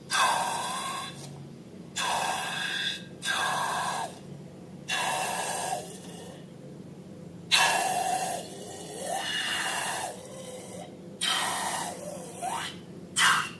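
Air hissing out of balloons in about eight short bursts, each half a second to a second and a half long, some with a faint squeak that slides down in pitch.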